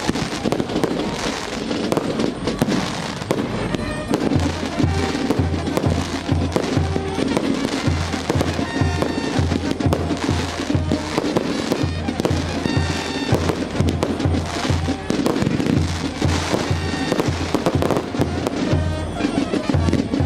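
Fireworks bursting and crackling in quick succession over loud music; from about four seconds in the music has a steady bass beat, about two beats a second.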